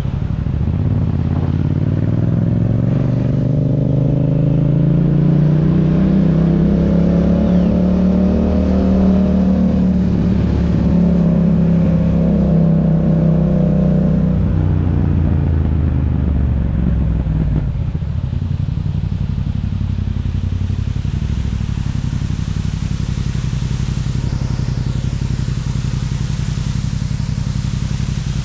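2021 Yamaha MT-07's parallel-twin engine through an aftermarket Akrapovic exhaust under way. It pulls up through the revs over the first few seconds, holds there, then eases off about halfway through and runs on at steady lower revs.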